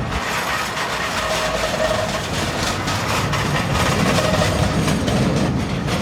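Freight train rolling past on the rails, with wheels clicking over rail joints and a brief faint squeal now and then.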